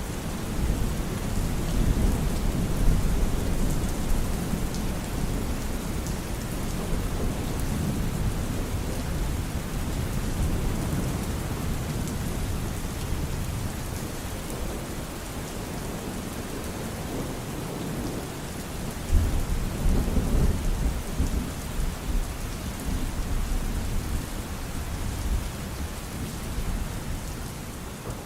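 Steady rain with rolling thunder: a continuous hiss of rain, with low rumbles of thunder swelling in the first few seconds and again about two-thirds of the way through.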